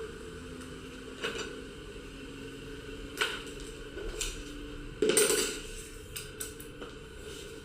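Scattered knocks and clinks of hard objects being handled, a few seconds apart, the loudest about five seconds in.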